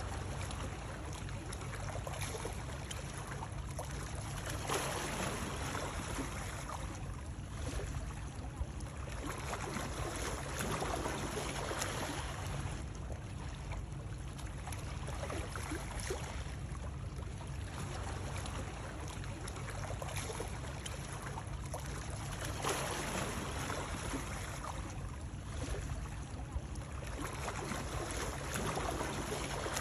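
Continuous water sound, swelling and easing every few seconds over a steady low rumble.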